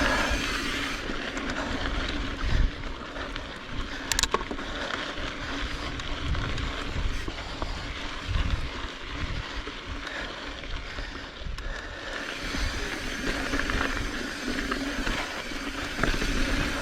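Mountain bike rolling along a dirt singletrack trail: tyre noise, drivetrain and frame rattle, and wind rumbling on the helmet or bike-mounted microphone, with one sharp click about four seconds in.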